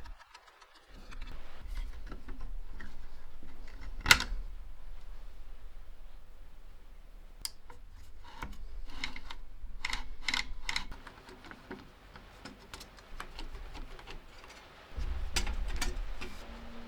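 Irregular clicks and small metallic taps of the Felix M mechanical calculator's tin and aluminium parts being handled, with one sharp click about four seconds in and a busy run of clicks a few seconds later.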